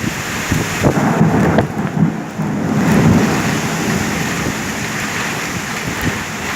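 Heavy rain pouring steadily, with a low rumble that swells about a second in and eases off over the next couple of seconds.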